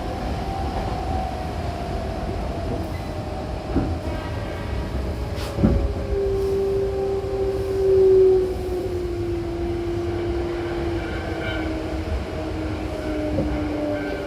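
Hankyu Kyoto Line electric train running, heard from inside the car: a low wheel rumble with a few sharp rail clicks, and a whine that falls steadily in pitch from about halfway through as the train slows for the next station.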